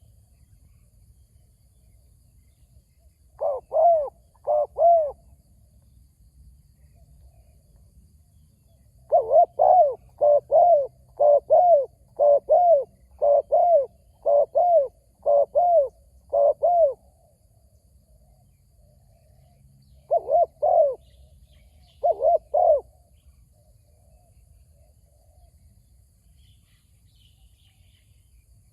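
Spotted dove cooing: a short phrase of four coos about three and a half seconds in, a long run of about a dozen coos from about nine to seventeen seconds, then two short phrases of coos at about twenty and twenty-two seconds.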